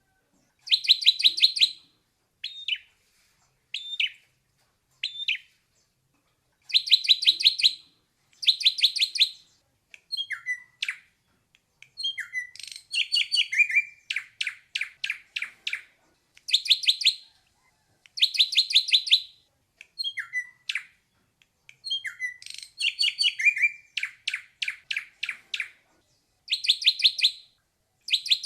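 Ashy drongo singing: runs of about six to eight fast, clipped high notes, each run lasting about a second, alternating with single short notes and downward-sliding whistles, with short pauses between phrases.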